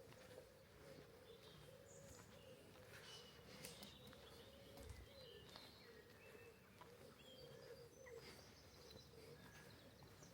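Faint birdsong: scattered short chirps and calls from several small birds, over a faint, steady, wavering hum.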